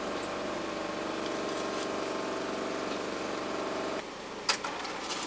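Car engine idling, heard inside the cabin as a steady hum that cuts off abruptly about four seconds in, followed by a couple of sharp clicks.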